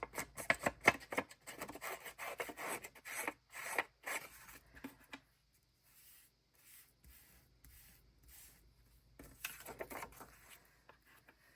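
Scissors trimming a small piece of paper: a quick run of crisp snips over the first few seconds, then quieter rubbing and scraping of paper, with a few more snips and rustles near the end.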